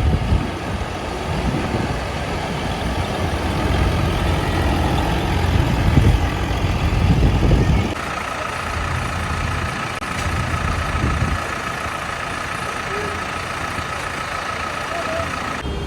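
Tractors' diesel engines running with a heavy low rumble; about halfway through the sound changes abruptly to a slightly quieter mix with a steady high whine.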